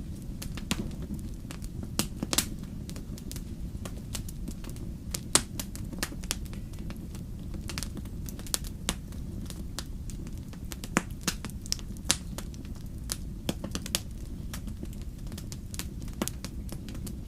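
Wood fire burning: a steady low rumble with irregular sharp crackles and pops from the burning logs, a few of them louder.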